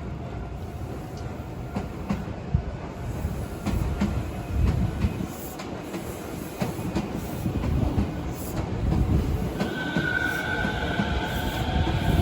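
Hankyu electric train passing: a steady low rumble with irregular clacks of wheels over rail joints. From nearly ten seconds in, a high steady wheel squeal joins it.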